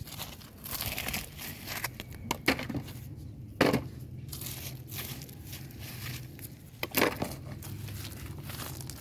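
Rustling, crinkling handling noises over a low steady hum, broken by three sharp knocks or clatters about two and a half, three and a half and seven seconds in.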